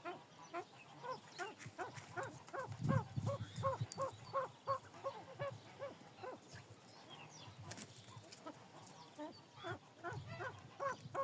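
Pheasants calling: a quick run of short, repeated, pitched notes, about three or four a second, thinning out midway and picking up again near the end. Low thuds are heard about three seconds in and again near the end.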